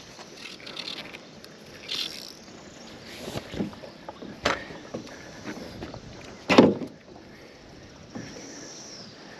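Water sloshing and splashing during the fight with a hooked brown trout, with two short louder sounds about four and a half and six and a half seconds in, the second the loudest.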